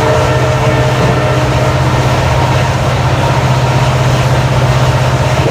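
Passenger train running, with the loud, steady low hum of its WDP4D diesel locomotive's EMD two-stroke V16 engine.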